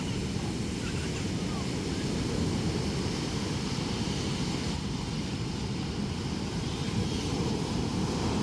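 Ocean surf breaking, a steady low rumble.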